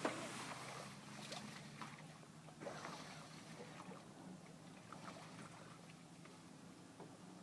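Quiet ambience aboard a small river boat: a faint steady low hum with scattered soft knocks and water sounds, and a sharp knock right at the start.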